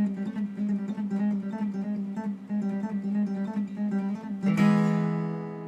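Intro music: acoustic guitar picking a quick run of notes, ending on a strummed chord about four and a half seconds in that rings out and fades.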